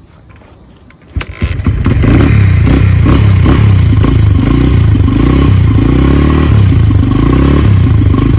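2002 Honda XR80R's small four-stroke single-cylinder engine kick-started cold: a kick about a second in, the engine catches and runs loud, its revs rising and falling over and over because the cold engine will not yet idle on its own.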